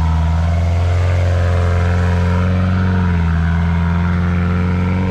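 Truck engine running hard under load, driving through deep mud, its pitch shifting and dipping about three seconds in.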